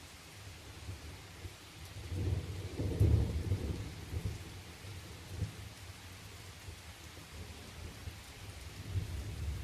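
Steady rain falling, with rolling thunder: a deep rumble builds about two seconds in, peaks and fades away, and another begins to build near the end.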